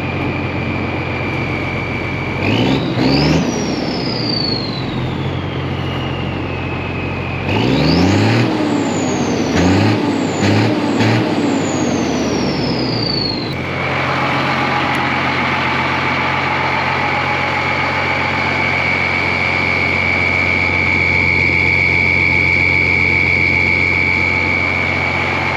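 Deuce-and-a-half truck's diesel engine fitted with a Schwitzer 'Whistler' turbo, idling under a steady high turbo whistle. The throttle is blipped once and then several times in quick succession. Each time the turbo whistle shoots up in pitch and slowly winds back down, before the engine settles back to idle with the steady whistle.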